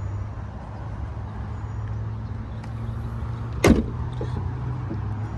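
Ford Mustang GT's 5.0-litre V8 idling steadily, and the hood slammed shut with one loud thump about two-thirds of the way through.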